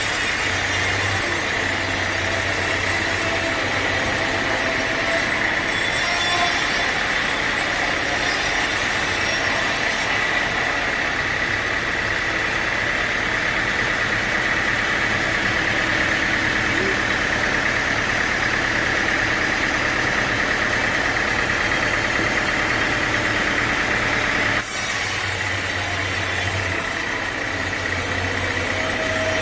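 Sawmill running steadily: an engine drone with a steady high whine over it. The sound changes abruptly twice, about a third of the way in and near the end.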